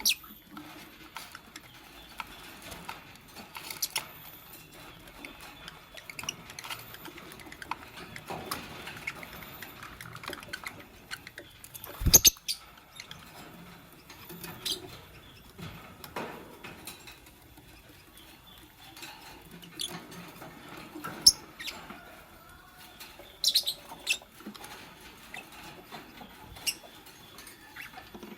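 Fischer's lovebirds moving about in their cage: scattered scratching, rustling and clicking, with a few short high chirps. A loud thump comes about twelve seconds in.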